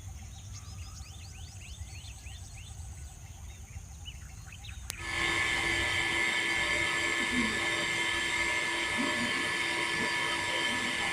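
Faint bird chirps over quiet outdoor background, then about five seconds in a small machine starts running with a steady hum and whine that holds at an even level.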